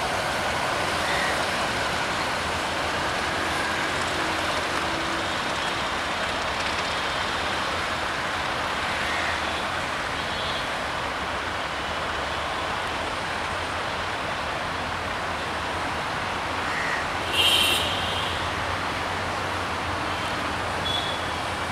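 Diesel-hauled passenger train running away along the track, a steady rolling noise that holds through, with a few faint chirps and one short loud burst of sound about seventeen seconds in.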